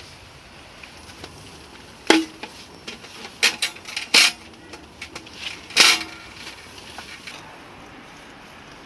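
A handful of sharp knocks and clatters of hard objects being handled, with a short ring after the strongest ones; the loudest come about two seconds in and just before six seconds.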